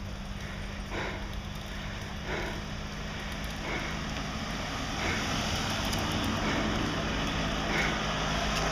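Wind rushing over a camera microphone carried on a moving bicycle, slowly growing louder, with faint short puffs about every second and a half.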